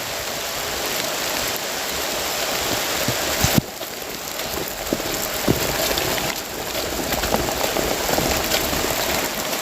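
Heavy rain falling steadily, a dense even hiss, with a few light knocks.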